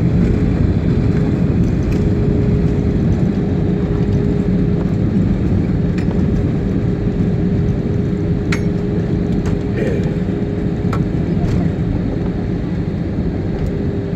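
Airliner cabin noise: a steady low rumble from the jet engines and airflow with a steady whine over it, slowly easing, with a few faint clicks.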